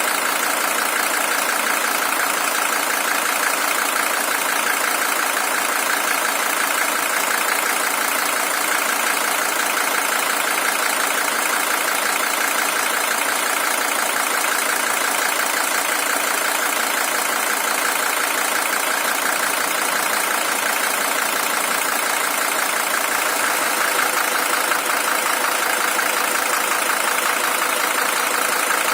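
Mercedes-Benz OM617 five-cylinder diesel, the original engine at 620,000 km, idling steadily with the typical diesel clatter.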